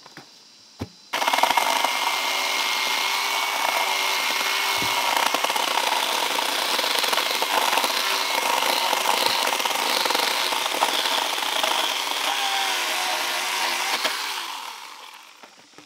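Power saw cutting through wooden poles. It starts abruptly about a second in, runs steadily under load, and winds down near the end.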